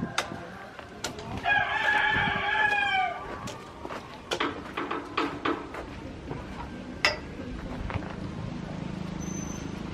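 A rooster crows once, a call of nearly two seconds that drops in pitch at its end, followed by a few scattered sharp knocks and clicks.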